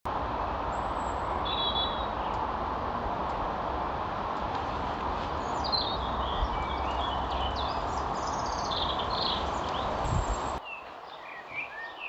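Small birds chirping and trilling over a steady outdoor background noise with a low rumble. About ten and a half seconds in the noise drops away abruptly, leaving only the bird calls.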